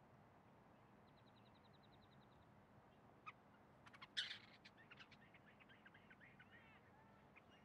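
Quiet open-air ambience with faint bird chirps, a rapid ticking trill about a second in, and one short sharp sound about four seconds in.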